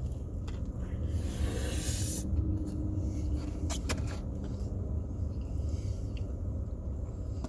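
Steady low rumble inside a car cabin, with a brief rustle about a second in and two sharp clicks around the middle.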